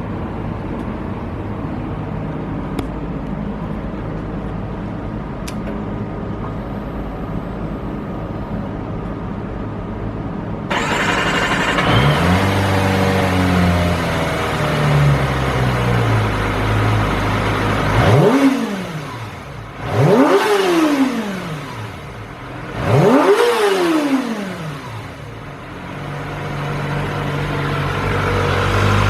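Kawasaki ZX-25R's 250 cc inline-four on its stock muffler: after about ten seconds of a steady low running sound, the engine catches, flares and settles to idle, then is revved three times in quick, sharp blips, each rising and falling in pitch, before settling back to a steady idle.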